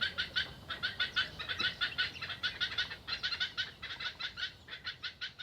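Black-headed heron chicks begging for food: a rapid, unbroken run of short, high chattering calls, several a second, pressing the adult to regurgitate.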